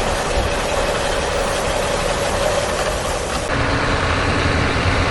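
A truck engine idling, with a steady noisy running sound. About three and a half seconds in it switches abruptly to a deeper, steadier engine hum.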